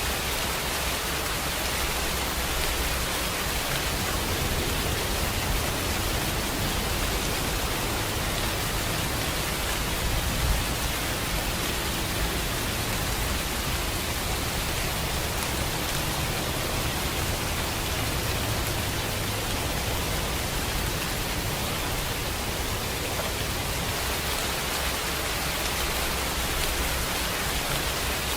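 Steady rainfall: an even hiss of rain falling, with a faint brief tap about ten seconds in.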